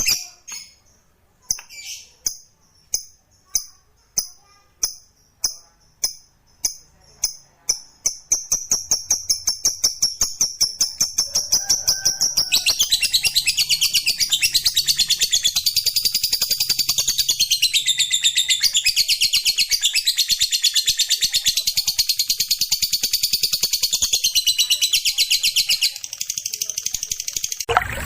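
Lovebird 'ngekek' song: sharp, high chirps about once a second that speed up into a long, rapid, rattling trill lasting over ten seconds, which gets a little quieter near the end.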